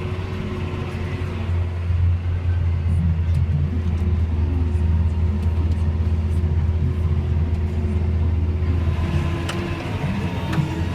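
John Deere 6140R tractor's diesel engine running with a deep, steady rumble. It gets louder about two seconds in and eases off again near the end.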